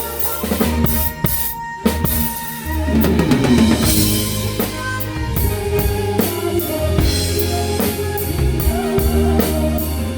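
Live band playing a song with the drum kit to the fore: bass drum, snare and cymbals keep a steady beat over sustained low notes. About two seconds in there is a brief stop, and then the band comes back in with a cymbal wash.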